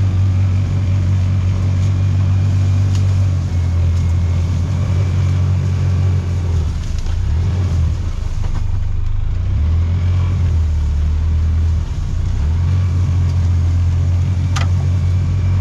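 Side-by-side utility vehicle's engine running steadily while driving, easing off briefly about halfway through and again near twelve seconds in.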